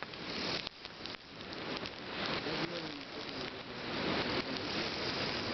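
Wood bonfire burning with a steady crackle and hiss.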